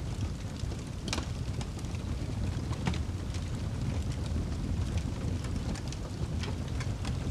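Wood fire burning in a fireplace: a steady low rumble of the flames with frequent sharp crackles and pops, a louder pop about a second in.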